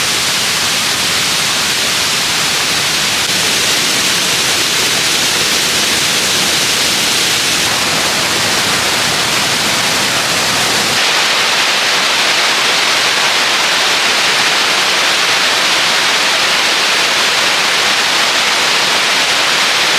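Steady rushing hiss of falling water from a waterfall. About halfway through, the lower rumble drops away abruptly and the hiss turns brighter.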